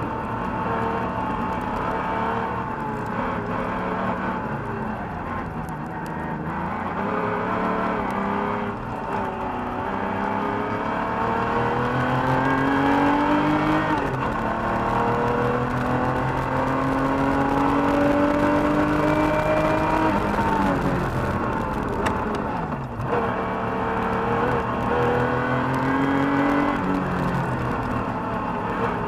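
1985 Porsche 911 Carrera's air-cooled flat-six heard from inside the cabin under hard driving. The engine note climbs several times and drops back in between, with its longest run of revs in the middle.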